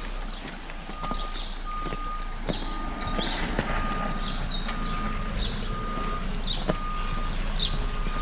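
Small songbirds singing: rapid high trills through the first half, then short down-slurred chirps repeated about every half second. Under them a short steady beep at one pitch repeats roughly once a second.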